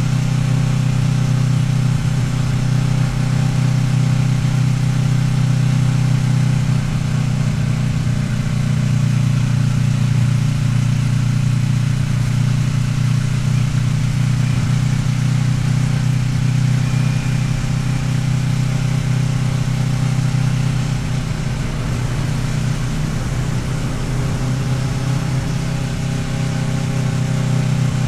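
Kawasaki Ninja 650R's parallel-twin engine running at a steady cruise. It eases off briefly about three quarters of the way through, then picks up again.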